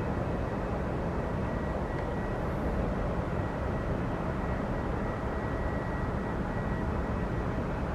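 Jet airliner noise on the apron: a steady low rumble with a thin, steady high-pitched whine running through it.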